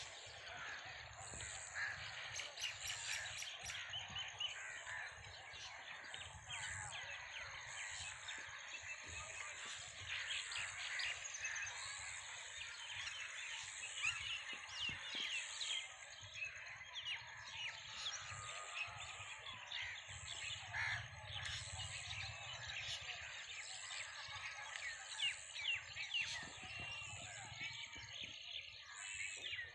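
Crows cawing among other birds chirping, with many short calls throughout.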